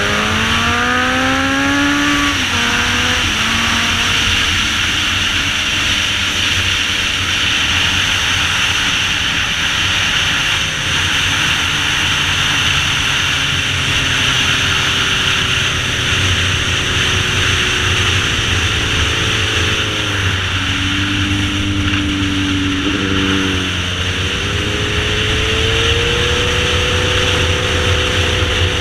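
Sportbike motorcycle engine at speed, over a steady rushing noise: the revs climb at the start, sink slowly through a long stretch, step up about two-thirds of the way through, drop, then climb again near the end.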